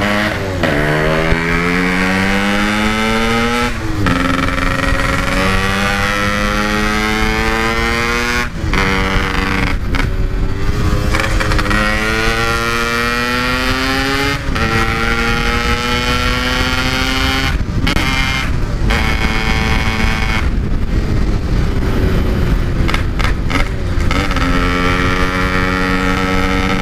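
Yamaha RX-King 135cc two-stroke single-cylinder motorcycle, fitted with a 'standart belek' aftermarket exhaust, ridden and accelerating through the gears. Its pitch rises steadily in each gear and drops sharply at each upshift, about half a dozen times.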